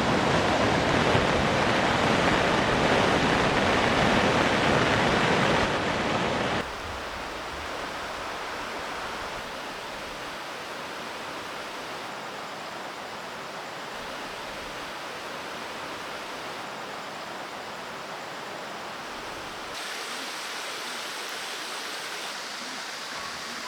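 Steady water noise, loud for the first six seconds, then dropping suddenly and continuing more quietly, with a slight rise about twenty seconds in.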